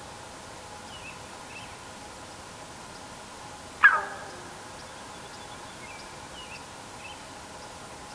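Small birds chirping faintly a few times over a steady outdoor hiss, with one short, loud animal call about four seconds in that drops sharply in pitch.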